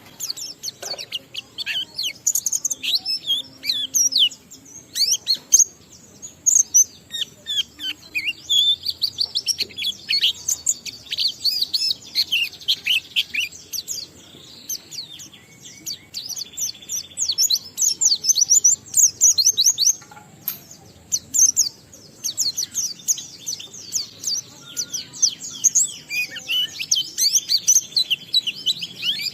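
A white-eye (pleci) singing a long, fast run of high twittering chirps with short lulls, the continuous 'ngalas' song packed with mimicked phrases.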